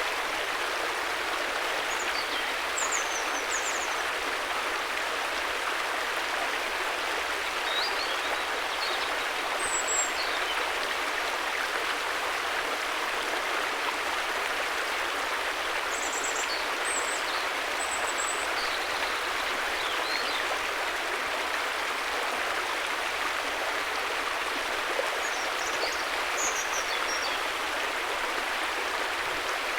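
River water flowing in a steady, even rush, with a few brief high chirps now and then.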